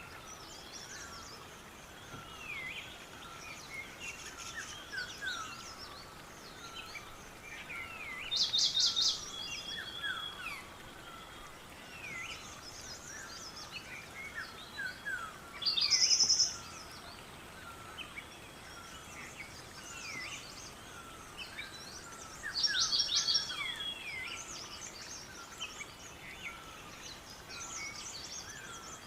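A chorus of many small songbirds chirping and whistling all through. One bird close by sings three louder, rapid trills, about a third of the way in, just past the middle and again later.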